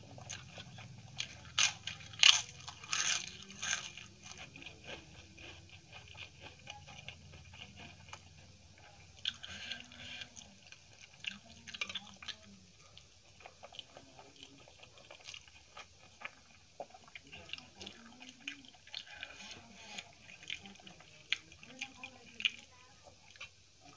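Crisp crunching of papad being bitten and chewed, loudest in the first four seconds, followed by softer wet chewing and mouth clicks of rice and baingan masala curry eaten by hand.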